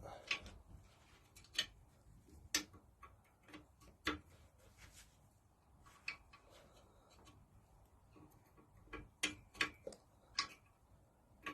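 Scattered sharp clicks and taps, with a quicker run of them near the end: parts and tools being handled while the governor drive and its spring are taken off a Lister D engine.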